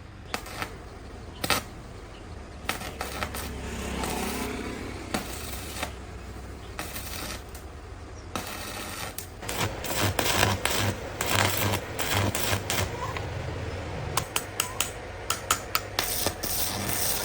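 Metal parts and hand tools clinking and knocking irregularly during workshop repair work, with a quick run of sharp clinks in the last few seconds.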